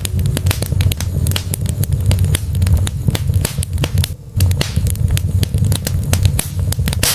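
Wood fire burning in a fireplace: dense, irregular crackling and sharp pops over a steady low rumble, dipping briefly about four seconds in.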